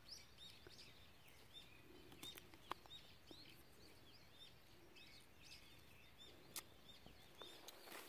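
Faint birds chirping: a steady string of short, high chirps, a few a second, with a few soft clicks in between.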